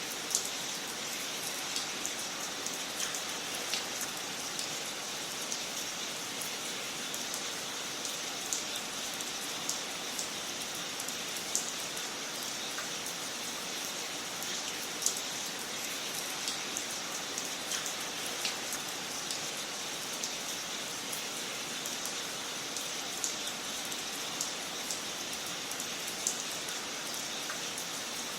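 Wood fire crackling in a fireplace: a steady hiss with many scattered sharp pops and snaps at irregular intervals.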